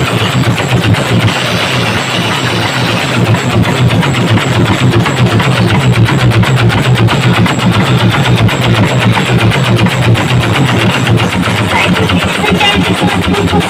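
Large outdoor loudspeaker stacks pushed into heavy distortion, giving a continuous loud pulsing bass rumble that sounds like an idling engine.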